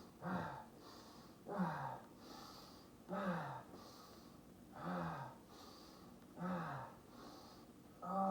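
A man breathing hard through exercise reps: five short voiced exhales or grunts falling in pitch, about one every second and a half, each followed by a quick breath in.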